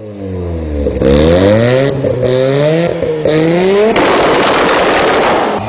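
Car engine accelerating hard through the gears: its pitch climbs, drops at each shift, and climbs again several times. About four seconds in comes a rush of harsh noise lasting about a second and a half.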